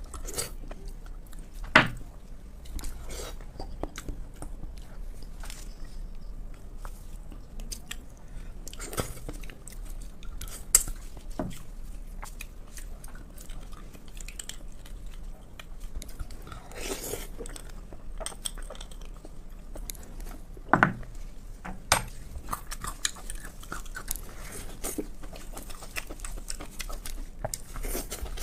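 Close-miked chewing and biting of food, wet and at times crunchy. A few sharp knocks of utensils against dishes stand out, the loudest about 2, 11 and 21 seconds in.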